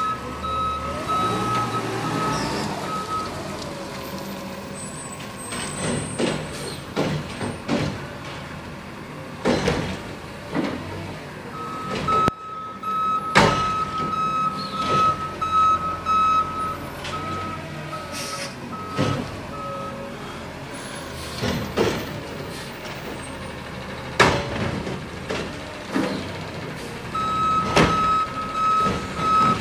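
Garbage truck working at the curb: its reversing alarm beeps in stretches, starting and stopping several times, over the engine's running. Sharp knocks and several loud bangs sound between the beeps.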